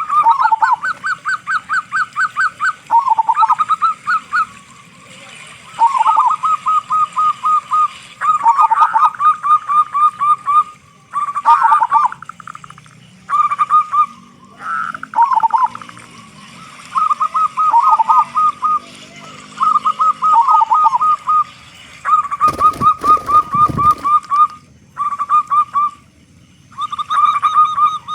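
Zebra dove (perkutut) cooing: repeated phrases of quick, short staccato notes on one pitch, each phrase ending with a few lower notes, with short pauses between phrases. About three-quarters of the way through, a brief crackling noise cuts across the song.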